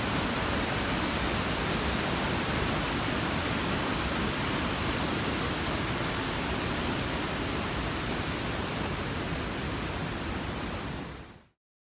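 Steady rush of a large waterfall, an even noise of falling water with no pauses, fading out near the end.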